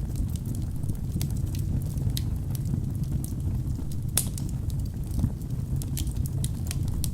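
Wood fire burning in a fireplace: a steady low rumble of flames with irregular sharp crackles and pops from the logs, one louder pop about four seconds in.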